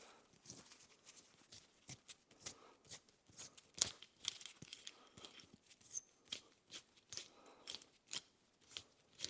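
An 8.5 mm hand reamer being turned in a steel door-hinge bolt hole, cutting the hole up to size: a run of short, sharp scraping clicks, about two a second.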